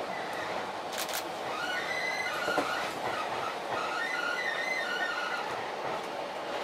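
Eizan Electric Railway train running, with its wheels squealing in short on-and-off high squeals from about two seconds in. A sharp click sounds about a second in.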